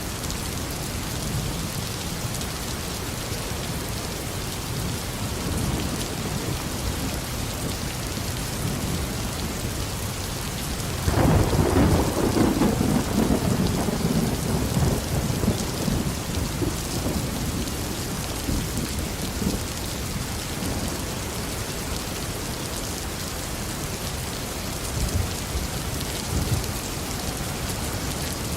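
Steady heavy tropical rain falling on a garden, with a clap of thunder breaking in about eleven seconds in and rumbling away over several seconds; fainter rumbles come before and after it.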